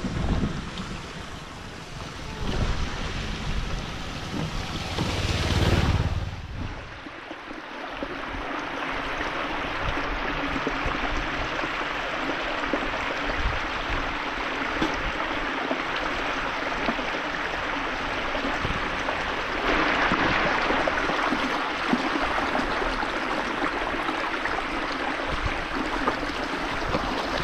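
Floodwater rushing steadily, with wind buffeting the microphone for the first few seconds.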